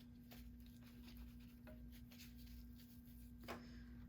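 Near silence: room tone with a faint steady hum and a few very faint small ticks.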